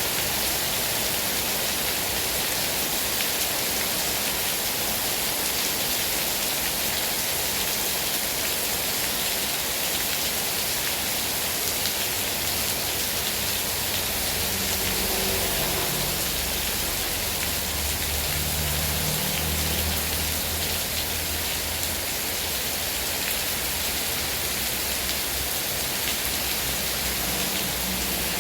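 Heavy rain falling steadily, a dense even hiss of drops on surfaces. A low rumble swells underneath about halfway through and fades again.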